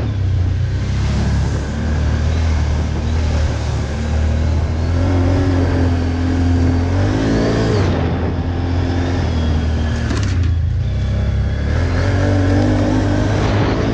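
ATV (quad bike) engine running under load off-road, its revs rising and falling, with a climb in pitch about halfway through and again near the end.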